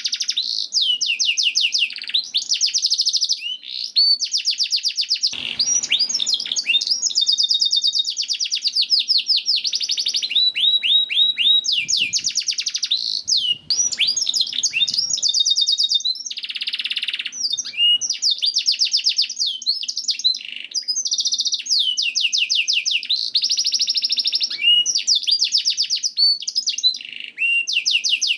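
Domestic canary singing a long, continuous song of rapid trills and rolls, each phrase a fast run of repeated notes that shifts to a new phrase every second or two, with only brief breaks.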